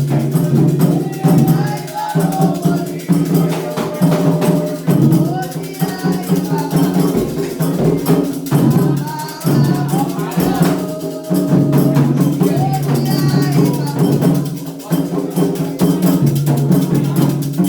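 Candomblé ritual drumming, a toque for the orixá Ayrá: atabaque hand drums beating a fast, dense rhythm with a rattle, and voices singing over them.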